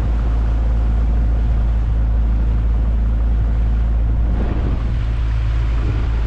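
Small boat's outboard motor running steadily under way, with a constant low drone.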